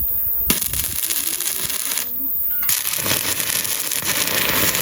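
Arc welding from a homemade welder: the arc crackles and sizzles, stops briefly twice and strikes again.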